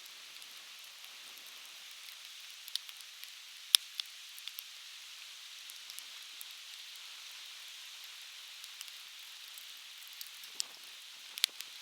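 Coniferous firewood burning in a campfire, crackling with scattered sharp pops, the loudest a little under four seconds in and a few more near the end, over the steady hiss of a flowing river.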